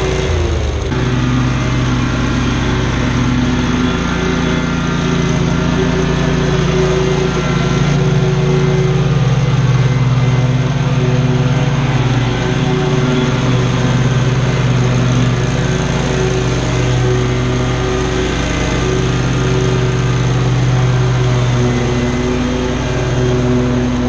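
Commercial lawn mower engine running steadily, with a short dip in pitch in the first second and another shift about halfway through.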